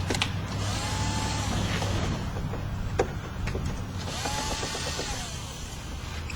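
A power drill runs in two short bursts, each spinning up, holding and winding down, with a few sharp clicks and knocks in between.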